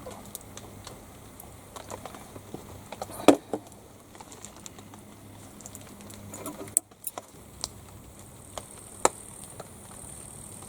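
Irregular light clicks and taps, with one louder knock about three seconds in, over a faint steady low hum.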